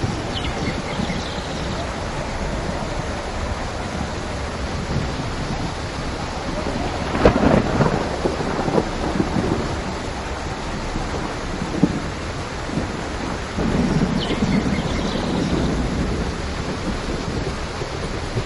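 Steady heavy rain with thunder: a sharp crack about seven seconds in that rolls off into a rumble, then further low rumbles later on.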